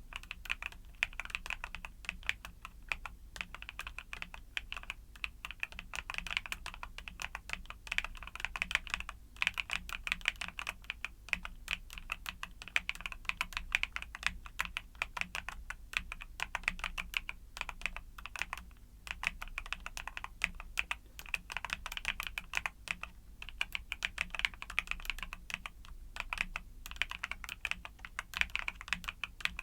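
Continuous typing on a YUNZII mechanical keyboard with Cocoa Cream switches: a fast, steady stream of key presses with a few brief pauses.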